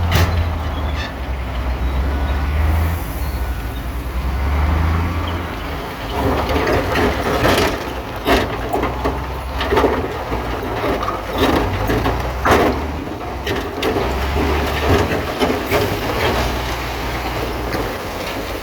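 Bulldozer working: its diesel engine runs with a deep hum that swells and eases, and from about six to thirteen seconds in there are repeated clanks and crunches of steel tracks and blade against rock.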